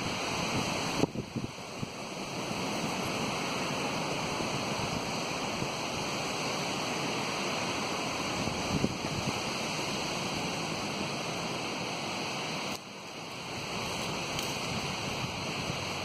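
Steady rushing wind noise, with wind blowing through the trees and buffeting the microphone. It drops away briefly about a second in and again near the end.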